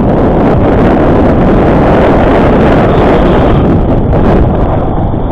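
Loud, steady wind buffeting on a head-mounted action camera's microphone while riding a bicycle fast downhill.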